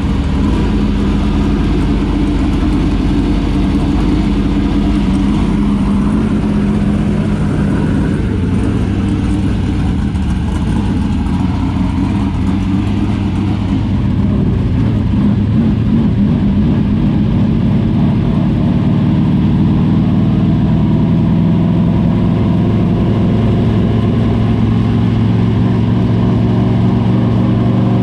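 Dirt super late model race car's V8 engine running on shakedown laps, its pitch shifting as it is driven, a little louder from about halfway.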